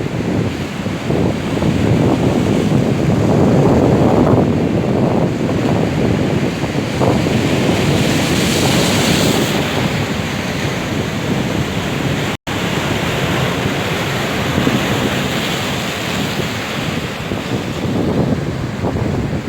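Storm surf breaking and washing up the beach, with strong wind buffeting the microphone; the sound swells and eases in waves and briefly cuts out about two-thirds of the way through.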